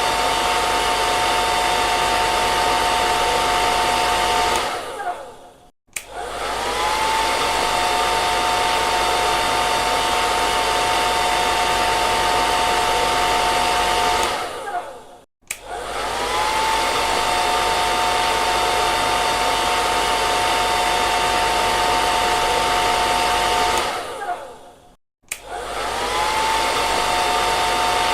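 Hair dryer running with a steady airy whir and a motor whine. About every ten seconds it dies away to near silence and starts again, the whine climbing back up to speed; this happens three times.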